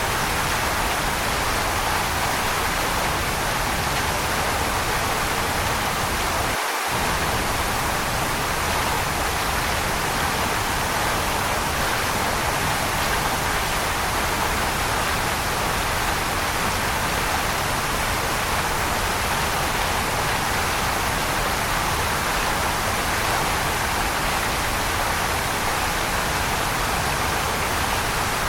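Waterfall: steady, unchanging rushing water, strongest in the middle range, with a momentary drop in the low rumble about seven seconds in.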